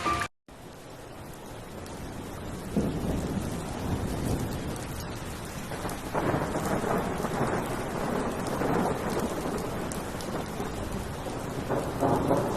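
Steady heavy rain with thunder rolling in the background; the thunder swells about three seconds in, again around six seconds, and near the end.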